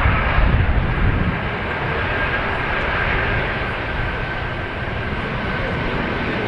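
Airliner's engines running: a steady roar with a faint high whine, loudest at the start and easing off slightly after the first second or so.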